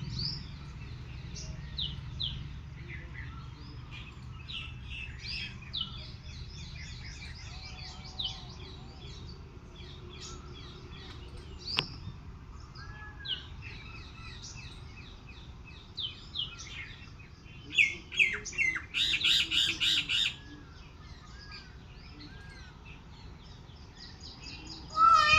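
Many birds chirping and calling in short, quick notes, with a louder burst of rapid calls from about 18 to 20 seconds in, over a steady low background noise.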